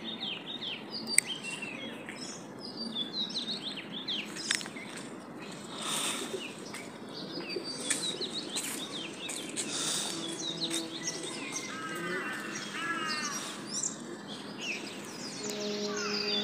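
Birds chirping and calling all round, with a few short bursts of wing flapping. A steady low hum starts near the end.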